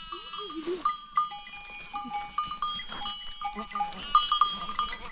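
A herd of goats and sheep bleating, with one wavering bleat in the first second. Many livestock bells clank and ring at different pitches throughout.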